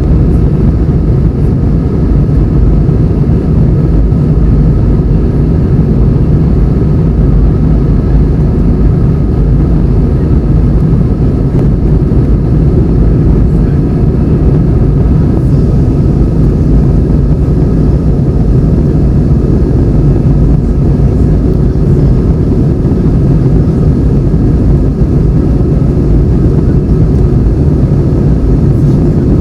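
Airbus A320 jet engines and airflow heard from inside the passenger cabin: a loud, steady, deep rumble with a faint high hum above it.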